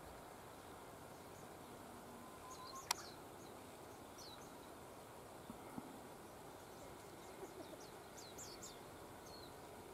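Faint outdoor background noise with small birds chirping now and then, the chirps short and falling in pitch and most frequent around eight seconds in. A single sharp click sounds about three seconds in.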